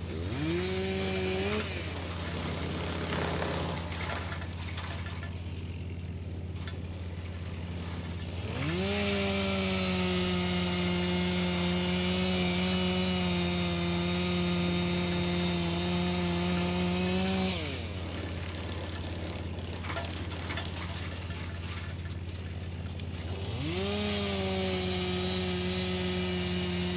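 Wood chipper running steadily, with three stretches where its pitch rises into a louder, higher tone with grinding noise, holds, and then falls away: a short one at the start, a long one of about nine seconds in the middle, and one that begins near the end.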